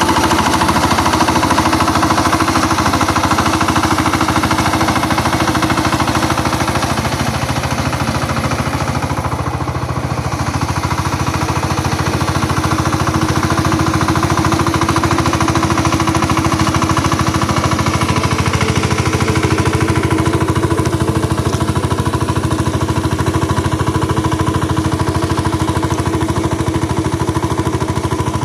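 Engine of a ploughing machine running steadily under load, with a fast, even chugging.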